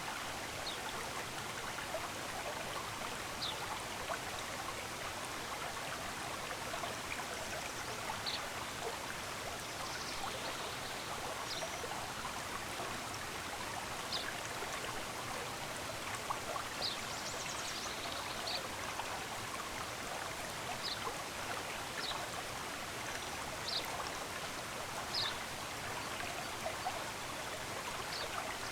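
Running water of a stream, a steady rush, with brief high bird chirps scattered over it, about a dozen in all.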